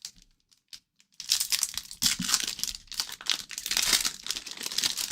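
The wrapper of a pack of 2023-24 O-Pee-Chee hockey cards being torn open and crinkled, a few small clicks and then continuous crackling from about a second in.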